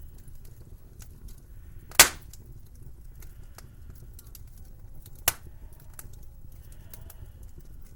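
Wood fire crackling in a fireplace, with a steady patter of small crackles and two sharp loud pops about two and five seconds in, the first the louder, over a low rumble.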